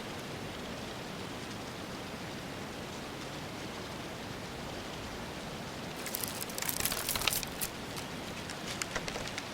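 A steady, even hiss of background ambience, with a cluster of sharp crackling clicks starting about six seconds in and a few more near the end.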